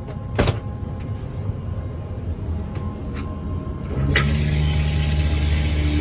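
Aircraft cabin noise: a low rumble with a few light clicks, then about four seconds in, after a click, a louder steady engine hum with a droning tone and hiss sets in.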